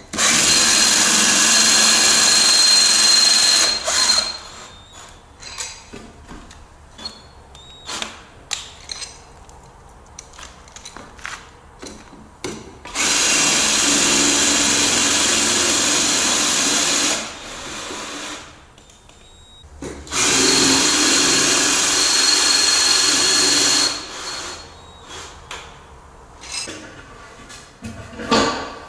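Power drill running in three bursts of about four seconds each, with short knocks and handling clicks between them.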